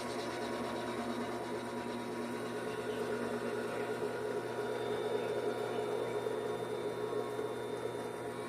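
Vevor 7x14 mini metal lathe running steadily with an even mechanical hum and whir from its motor and spinning chuck.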